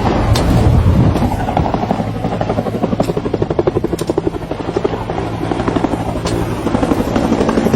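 Helicopter rotor chopping overhead, a rapid, even pulsing that is clearest through the middle of the sound.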